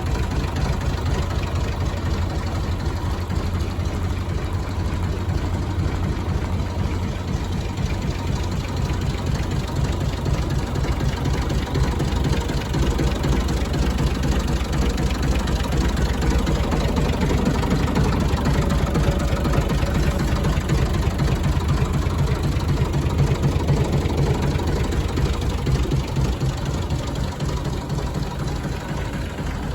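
Massey Ferguson 135 tractor engine running steadily at a low idle, growing somewhat louder for a while past the middle before settling back.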